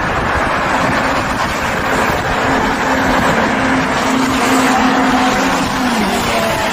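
Sportbike riding at speed: a dense rush of wind and road noise over a steady engine note that drops slightly near the end.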